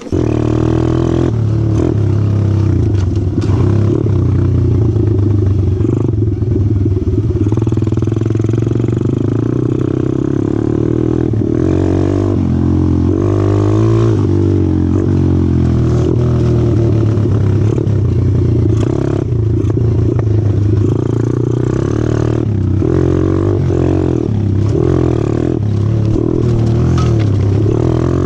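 Small single-cylinder 125cc four-stroke pit bike engine running loud and steady at a fairly constant speed, with scattered short knocks.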